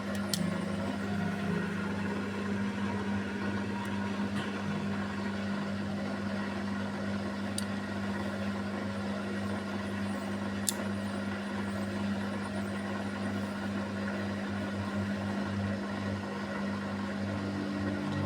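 Beko front-loading washing machine in its spin, the motor and drum giving a steady, even hum, with a few faint brief clicks.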